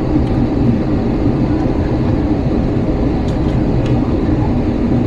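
Steady low rumble of cabin noise inside an Airbus A321 airliner, with a few faint clicks.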